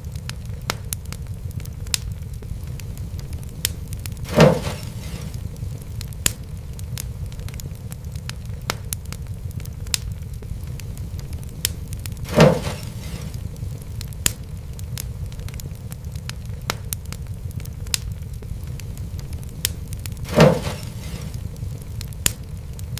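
Fireplace fire crackling: a steady low rumble with frequent sharp little crackles. Three louder pops come at even spacing, about eight seconds apart.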